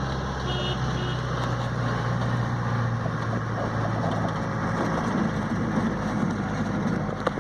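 A vehicle engine idling steadily with an even low hum, amid road traffic. A short sharp click comes near the end.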